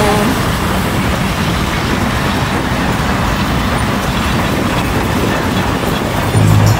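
Steady rushing noise of a train running, with no clear engine tone.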